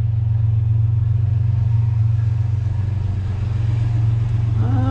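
Vehicle engine and road noise heard from inside the cab while driving, a steady low hum.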